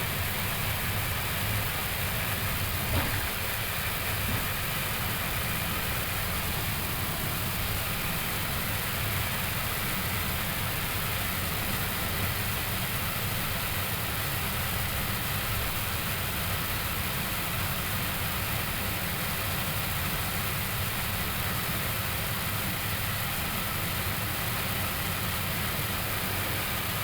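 Steady rushing hiss and low rumble inside an Airbus A321neo cockpit, with the engines at idle and the air conditioning running as the airliner taxis in, and a faint click about three seconds in.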